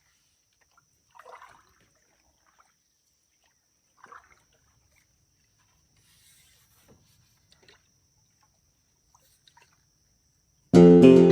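Still lake with two faint, brief splashes of water about one and four seconds in. Strummed acoustic guitar music starts loudly near the end.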